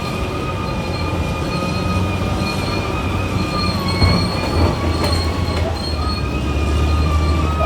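Crawler bulldozer working, its diesel engine rumbling low under a high-pitched squeal from its steel tracks, with a knock about four seconds in.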